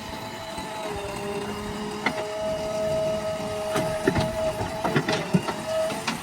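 JCB backhoe loader running at work: its engine and hydraulics give a steady whine, with several sharp knocks and clanks from about two seconds in.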